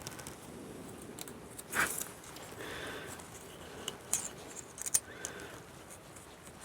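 Small metal hand tools clinking and rattling during work on the engine's valve gear, with a few sharp clicks, a handful of them close together around four to five seconds in.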